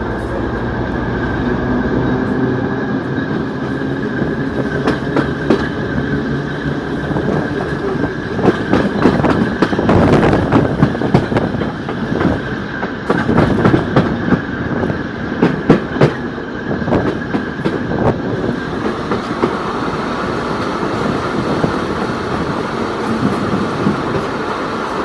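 TEP70 diesel locomotive running at speed, its wheels clattering over rail joints, with a dense run of loud knocks about halfway through. A steady high turbocharger whistle sounds through the first half and then fades.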